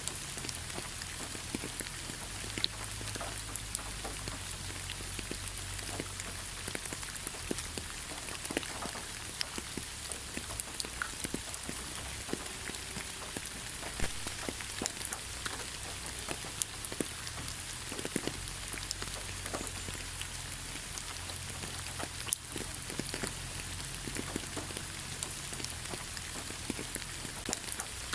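Steady rain falling, with a constant hiss and many separate drops pattering close by.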